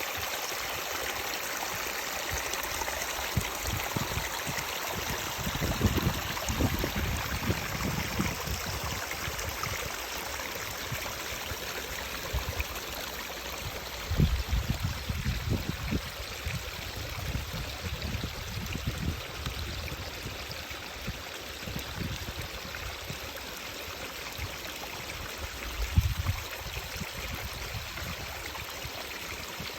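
A stream of running water, a steady rushing. Irregular low rumbles buffet the microphone now and then, strongest about a fifth, a half and nearly nine-tenths of the way through.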